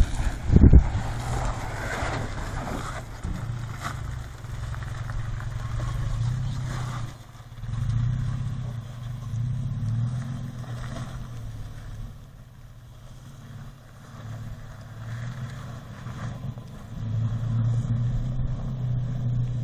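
A vehicle engine running at low revs, its hum swelling and easing as the throttle changes. A gust of wind buffets the microphone about half a second in.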